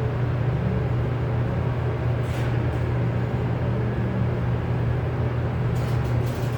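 A steady low mechanical hum at an even level, with a few brief light clicks or scrapes about two seconds in and again near the end.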